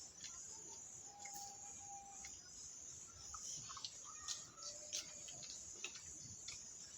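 A steady high chirring of insects, with a few short, plain bird whistles about a second in and again around four to five seconds in, and scattered light clicks.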